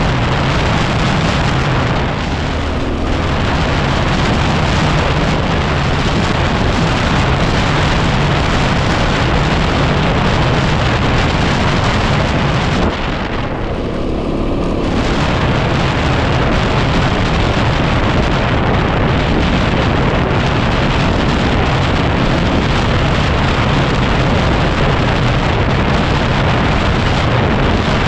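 Heavy wind noise buffeting the microphone while riding a 2010 Yamaha WR250R trail bike, with its single-cylinder engine running steadily underneath. The wind noise eases briefly about two seconds in and again about thirteen seconds in.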